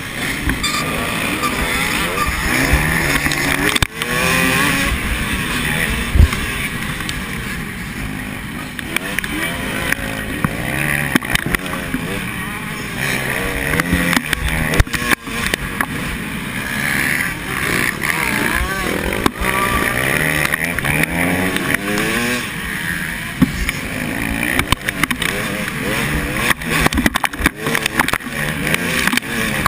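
Several motocross bikes racing, their engines revving up and down as they pass and go round the track, several at once with overlapping pitches.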